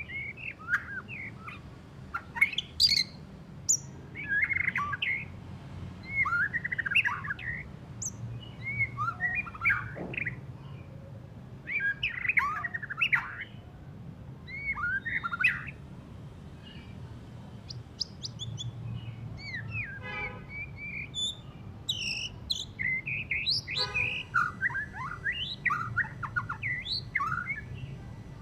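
White-rumped shama (murai batu), just out of its moult, singing in short varied phrases of whistles and chattering notes, with a pause of a second or so between phrases. Twice, once about two-thirds of the way in and again a little later, it gives a harsh buzzing rattle.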